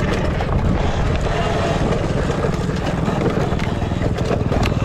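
Dirt bike riding in a race: a steady, loud vehicle rumble with a fast low pulsing, and scattered clicks and knocks of the bike going over rough ground.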